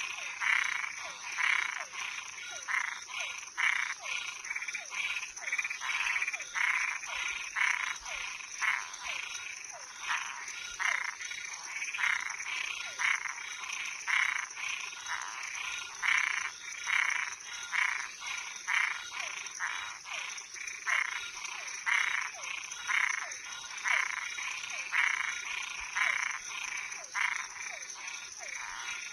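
Frogs calling in a night chorus: short calls repeating about one to two times a second. A steady high-pitched insect trill runs underneath.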